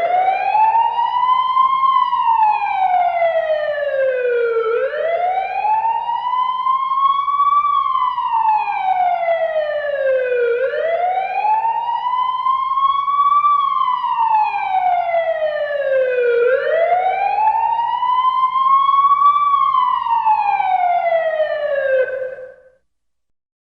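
A wailing siren, its pitch slowly climbing and falling in four long sweeps about six seconds apart, then cutting off near the end.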